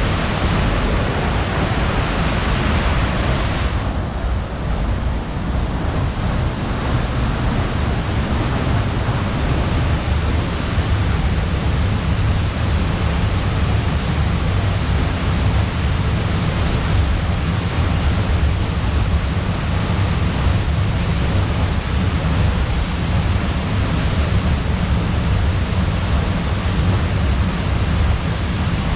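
Steady rushing roar of a large waterfall, Steindalsfossen, with heavy low rumble; the higher hiss drops back about four seconds in.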